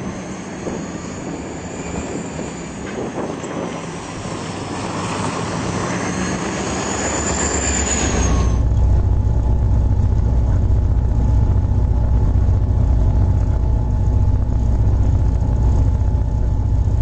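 Trains ploughing through deep snow drifts: for the first half a loud rushing hiss of thrown snow, then a sudden switch to a louder steady deep rumble with a faint hum as a train passes close.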